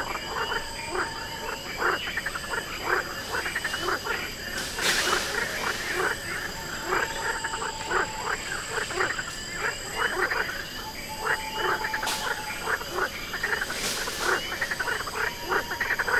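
Nature soundscape: a dense chorus of rapid, short croaking animal calls, overlapping without pause, with steady thin high-pitched tones held above them and a few brief hissing rushes.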